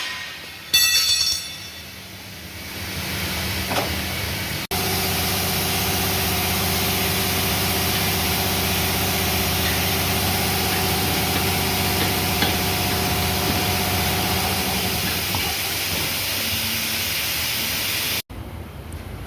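Motor running steadily under a loud, even hiss; the hum fades out partway through while the hiss carries on until an abrupt cutoff near the end. Before it come a few short squeaks and clicks.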